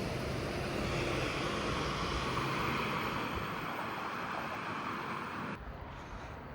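Waratah A-set electric train pulling out and running past, a steady rushing noise of wheels on rail with a high hum from the motors. It cuts off sharply near the end.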